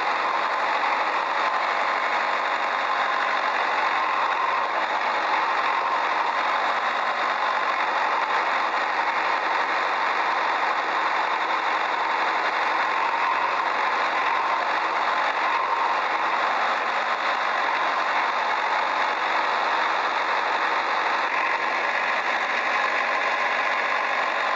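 Small electric motors and plastic gearboxes of toy remote-control construction vehicles running with a steady whirr.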